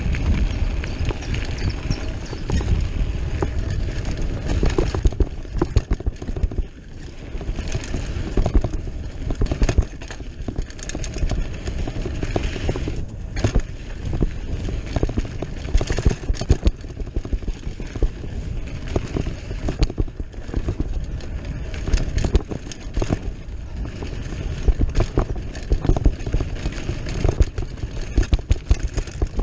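Norco Charger hardtail mountain bike ridden along a dirt trail: tyres rumbling over the ground, with frequent irregular knocks and rattles from the bike over bumps and roots.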